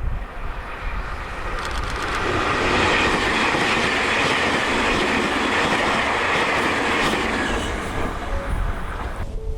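Tobu 500 series Revaty electric train running past: its rushing noise swells about two seconds in, stays loud for several seconds, then fades near the end. Strong wind buffets the microphone with low gusts before and after the train.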